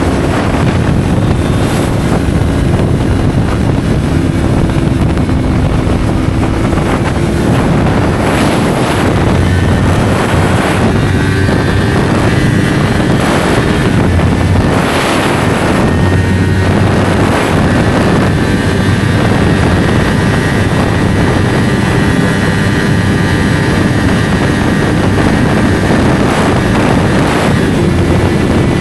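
Yamaha R3 parallel-twin motorcycle engine with an SC-Project slip-on exhaust, running steadily under way as the bike is ridden, its pitch shifting a little from time to time. Wind buffets the microphone in gusts.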